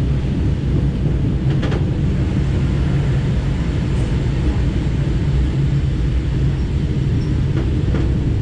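SKM Tricity electric commuter train running through a station, heard from inside the carriage: a steady low rumble of motors and wheels on the rails, with a faint click or two.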